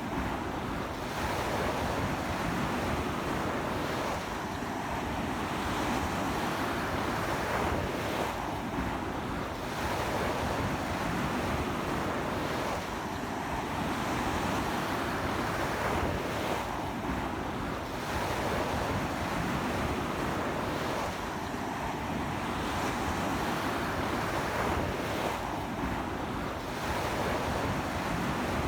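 Ocean surf breaking on a beach in a strong sea wind, a continuous rushing wash that swells a little about every four seconds, with wind buffeting the microphone.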